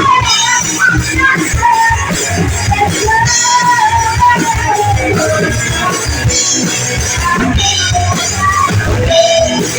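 Live rock band playing, with drums and amplified guitar under a sung melody line.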